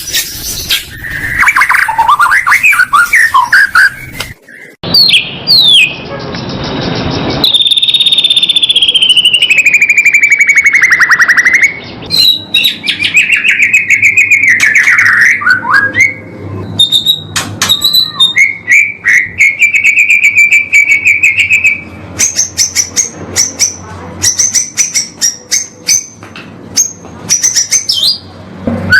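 Recorded songbird song played as a masteran, a tutor track for training a white-rumped shama: a varied, loud run of whistles, sliding notes and fast buzzy trills, broken by short pauses between phrases.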